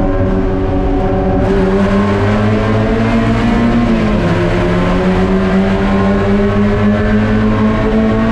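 Spec Miata's four-cylinder engine running hard. Its pitch climbs, drops sharply once about four seconds in as at an upshift, then climbs slowly again.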